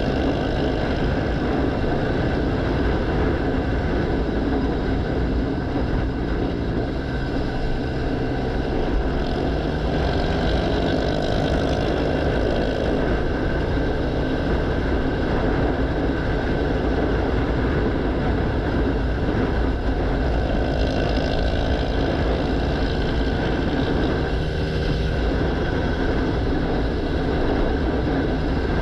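Motorcycle engine running under way with heavy wind rush, a steady loud roar, the engine note rising and falling a few times with changes of speed.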